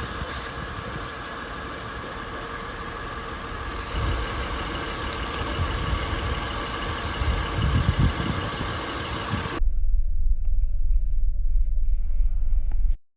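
Portable tire air inflator's compressor running steadily. About two-thirds of the way in, the sound changes abruptly to a louder low rumble, which cuts off just before the end.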